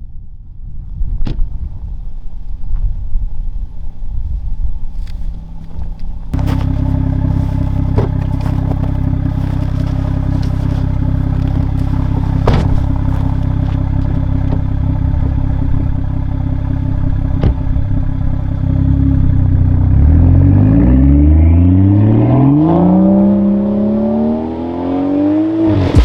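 A 2017 BMW 340i's B58 turbocharged 3.0-litre inline-six on its stock intake. It runs at a steady engine speed, with a few sharp clicks, then revs climb steadily under hard acceleration for the last several seconds.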